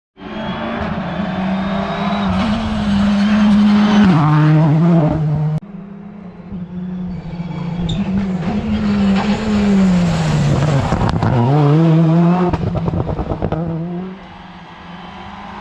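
Modern rally car engines at full attack on a special stage, the note rising and falling through gear changes, with a hard cut to a second passage about five and a half seconds in. Near the end the engine drops sharply in pitch and a rapid run of pops follows before it fades lower.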